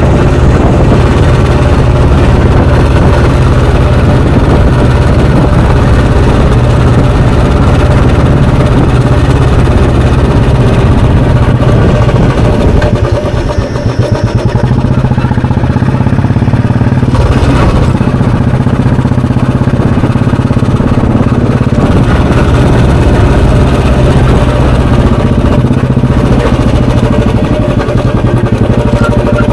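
Royal Enfield Bullet Standard 350's single-cylinder 346 cc four-stroke engine running under way, its exhaust note steady. It eases off briefly a little before halfway, then picks up again.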